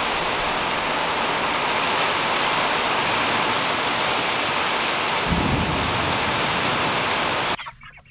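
Heavy, steady rain, a loud even hiss, with a brief low thump about five seconds in. The rain sound cuts off suddenly near the end.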